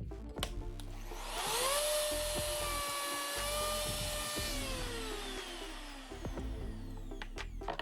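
An electric router's motor is switched on, winding up to a steady high whine that holds for about three seconds, then coasting down with a slowly falling pitch after it is switched off.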